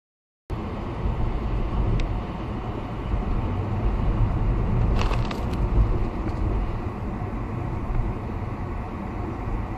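Vehicle on the move: steady low road and engine rumble that starts abruptly about half a second in, with a few light clicks about five seconds in.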